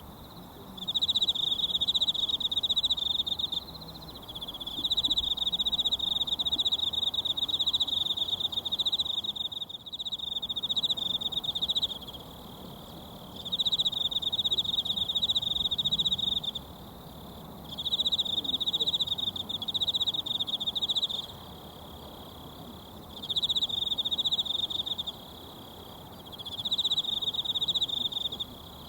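An insect calling in high, rapidly pulsed trills, repeated in bouts of a few seconds with short pauses between them; the longest bout runs about seven seconds. Beneath it runs the faint steady rush of a mountain stream.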